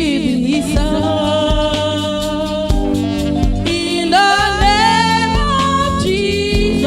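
Gospel praise singing: a lead voice holding and bending long notes over keyboard, bass and drums.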